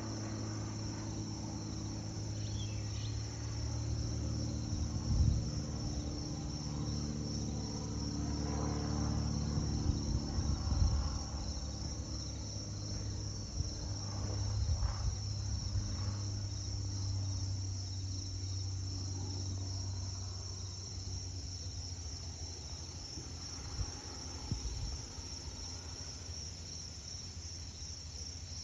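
Crickets chirping in a steady, high, pulsing trill, over the low drone of a single-engine Cessna R172E Skyhawk propeller plane passing overhead; the drone fades in the latter part. A couple of low thumps about 5 and 11 seconds in.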